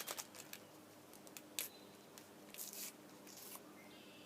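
Packet of powdered gelatin being handled and opened: faint scattered paper rustles and small clicks, the sharpest about a second and a half in.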